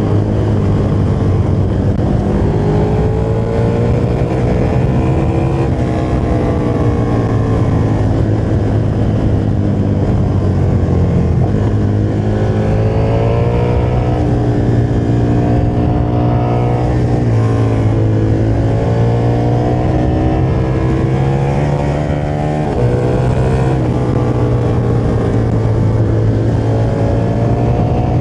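KTM motorcycle engine running under way, its revs rising and falling repeatedly with the throttle, with a brief drop in level about three-quarters of the way through.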